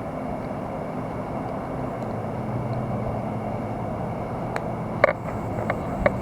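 A motor vehicle's engine running steadily nearby, a low hum under a haze of road noise, with a couple of sharp clicks near the end.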